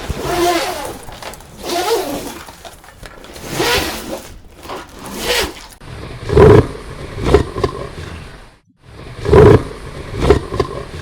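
Animal calls: first a run of pitched, wavering calls about every second and a half, then from about halfway several loud, deep calls.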